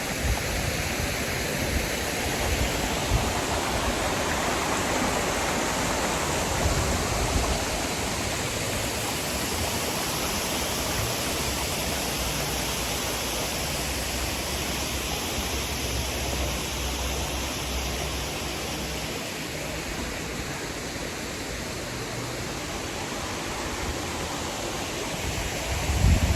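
Waterfall rushing: a steady wash of falling water with an uneven low rumble underneath.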